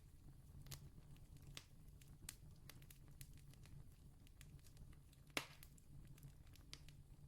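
Distant campfire crackling faintly: scattered small pops and snaps, with one sharper pop about five seconds in, over a faint low steady hum.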